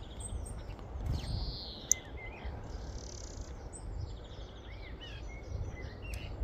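Several birds calling over one another: short chirps, whistles and quick rattling call series, over a low rumble of wind.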